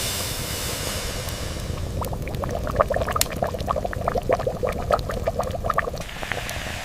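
Liquid bubbling and pouring: a steady hiss, then from about two seconds in a quick run of small bubbling plops.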